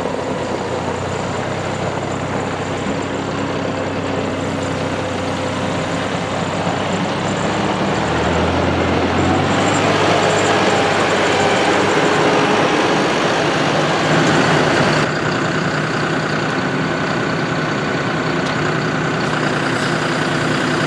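A John Deere 5075E's three-cylinder turbo diesel engine running. It comes up in speed and loudness about halfway through, then eases back a little a few seconds later.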